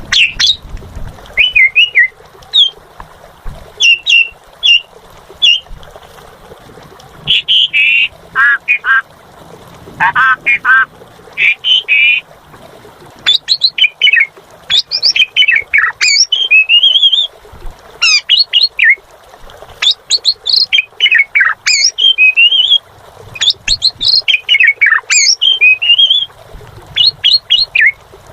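Asian pied starling (jalak suren) singing vigorously, almost without pause: a loud, varied string of whistles, warbles, down-sliding notes and harsh squawky calls in quick runs separated by short breaks.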